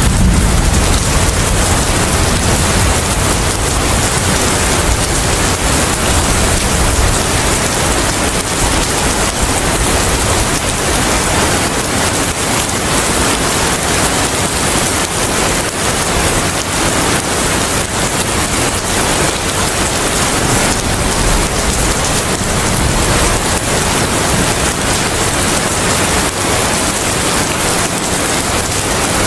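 Steady heavy rain. A deep rumble fades out over the first several seconds.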